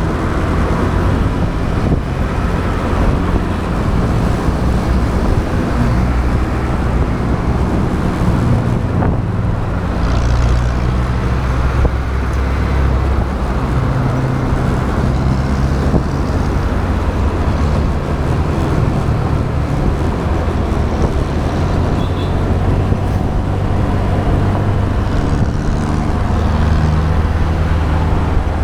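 Motorbike engine running while riding in traffic, its pitch rising and falling now and then as the throttle changes, over steady wind and road noise.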